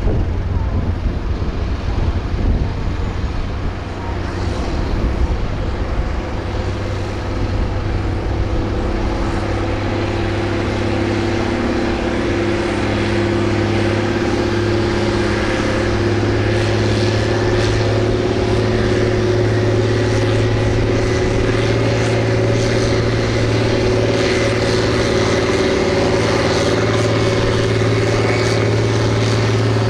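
Farm tractor engine running hard at one steady speed, as on a pull down the track with the sled, growing a little louder over the first half and then holding.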